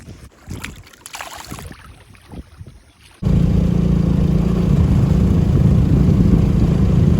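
Boat's outboard motor running under way, loud and steady. It comes in suddenly about three seconds in and cuts off just before the end, after a few seconds of faint scattered noises.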